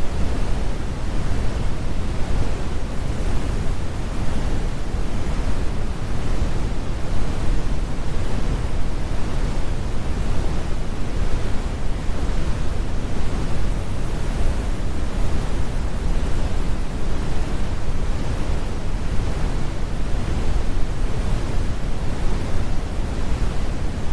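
Steady, computer-generated brown noise: an even, unbroken rumble weighted heavily to the low end, with the harsh highs removed.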